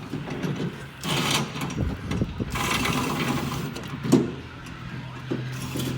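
Metal being worked by hand in preparation for welding: rough scraping strokes on steel, with a single sharp metallic knock about four seconds in.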